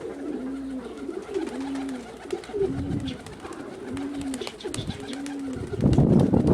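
Domestic pigeons cooing: a series of short, arched low coos, about one a second. Near the end a loud rush of noise cuts in, like a wind gust on the microphone.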